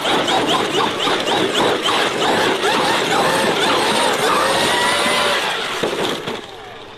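Electric motor of an XRT RC car whining as it drives, repeatedly rising and falling in pitch as it speeds up and slows, over a rush of tyre noise. The sound dies away about six seconds in.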